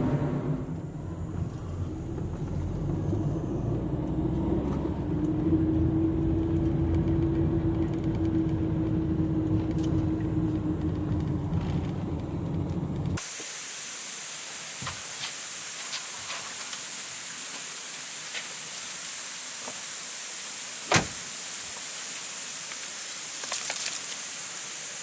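Car driving, a steady low road and engine rumble heard from inside, which cuts off suddenly about halfway through. It gives way to a quieter steady high hiss, with a few light ticks and one sharp click near the end.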